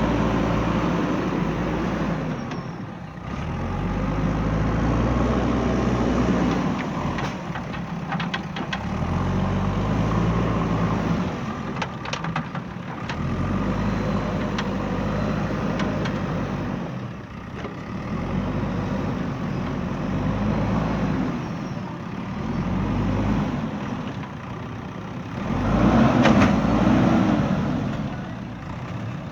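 JCB 3DX backhoe loader's diesel engine working under changing load, swelling and easing every few seconds, loudest near the end. A few short sharp clicks come in the middle.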